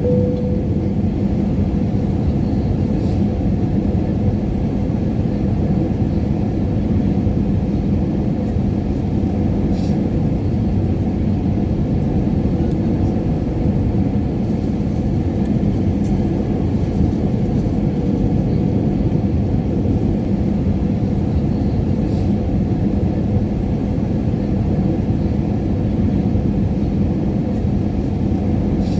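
Steady airliner cabin noise in flight: an even low rumble with a constant hum that does not change.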